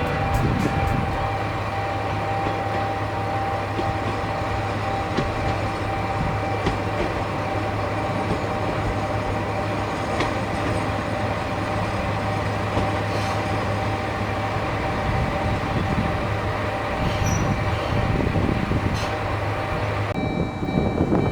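Diesel railcar of the Watarase Keikoku Railway running along the track: a steady engine hum with rail and wheel noise and occasional clicks, changing about twenty seconds in.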